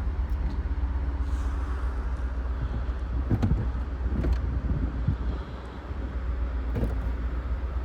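Mercedes-Benz R129 500SL's hydraulic convertible top cycling: a steady pump hum over the car's idling V8, with a few knocks and clicks as the top's linkages and latches move. The top works quickly, which the owner puts down to flushed hydraulic oil.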